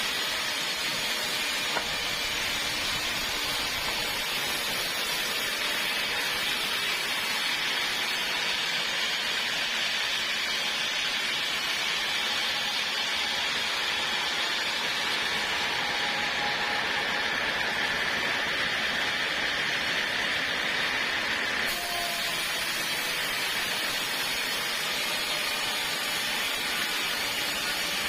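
Sawmill blade running through a log, a steady hissing cutting noise with a faint thin whine, changing abruptly near the end.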